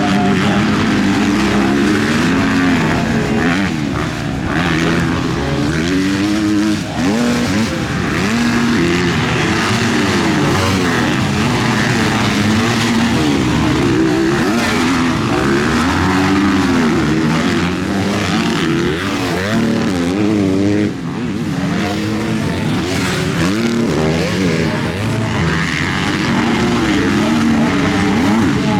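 Several motocross bikes racing, their engines revving up and down through throttle changes and gear shifts, with overlapping pitches from more than one bike.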